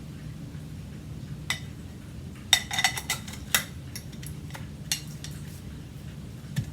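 Hard plastic parts of an old Hoover vacuum being handled, giving a few scattered clicks and clatters over a low steady hum.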